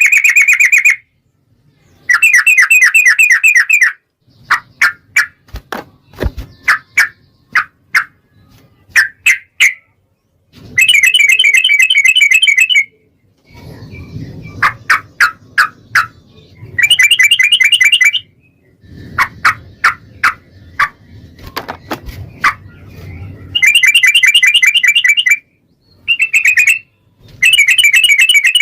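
Yellow-vented bulbul (trucukan) singing. Bursts of fast, high trills lasting about two seconds each alternate with runs of short, separate chirps, repeating throughout.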